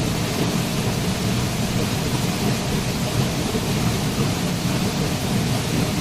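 Waterfall: water falling in a steady, even rush, heaviest in the low end, with no breaks or separate splashes.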